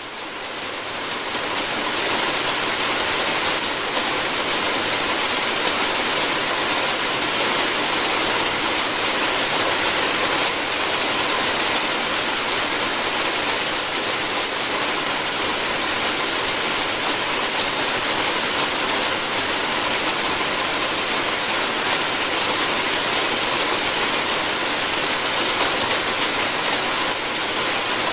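Steady rain falling on a roof, an even hiss that fades in over the first couple of seconds and then holds steady.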